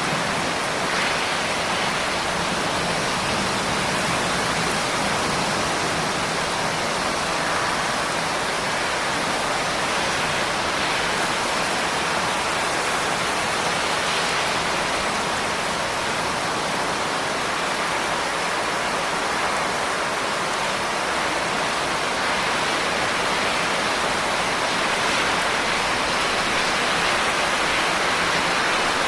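Steady rain falling, a dense, even hiss with no distinct drops or gusts standing out.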